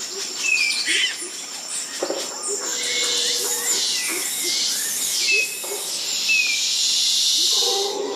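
Wild animal and bird calls, with short falling whistles repeating every second or two over a steady high hiss, as in a jungle soundscape.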